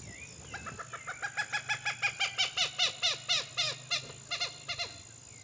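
A bird calling a long rapid series of downward-sliding notes, about five a second, swelling in the middle and then fading away.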